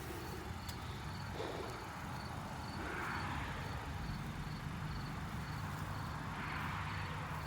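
Faint, evenly repeated high chirps, about three a second, from an unseen small animal that the listener takes for a quiet, unfamiliar bird. Under it runs a steady low rumble of distant traffic.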